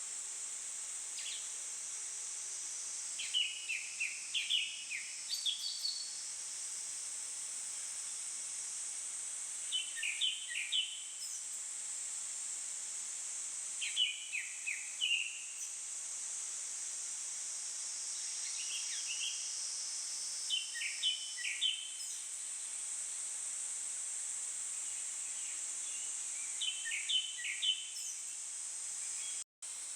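Japanese thrush singing short phrases of varied, clear whistled notes, six phrases spaced a few seconds apart, over a steady high-pitched insect drone. The sound cuts out for a moment near the end.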